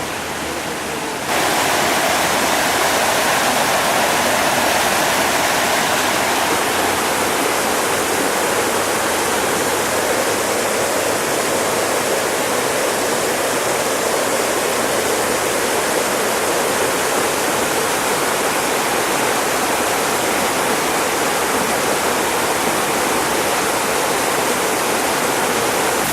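Garden waterfall: water falling and splashing steadily, with a sudden step up in loudness about a second in.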